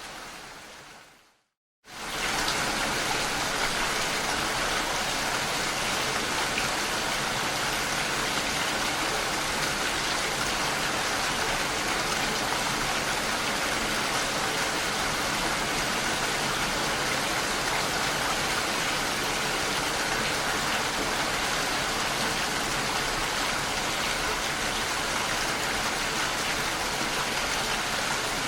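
Steady, dense rain noise. It fades out to silence about a second in and comes back abruptly a moment later.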